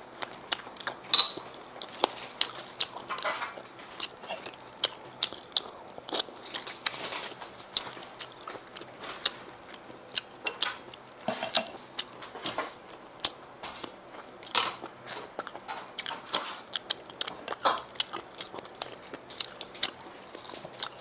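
Close-miked chewing and biting of sea snail meat, with many irregular sharp wet clicks and smacks of the mouth.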